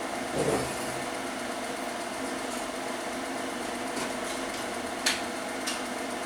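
Steady mechanical whirr of a small running motor, with a dull thump about half a second in and a sharp click about five seconds in.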